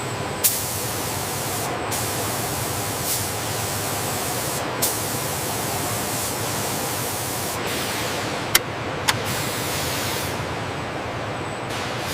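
Compressed air hissing on and off in four bursts of a few seconds each over a steady machinery hum, with a few sharp clicks, during cabin pressurization testing.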